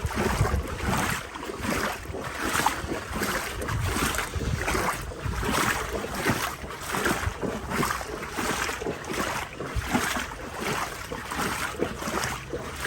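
Legs wading through deep floodwater: a steady rhythm of swishing, sloshing strides, a bit more than one a second, with wind buffeting the microphone.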